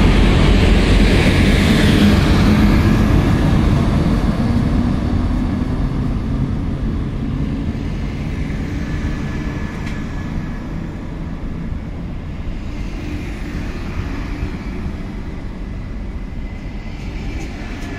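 NMBS class 27 electric locomotive accelerating away from the station with its intercity train: the locomotive's motor and fan hum passes close, then the double-deck coaches roll past with steady wheel-on-rail rumble. The sound fades steadily as the train draws away.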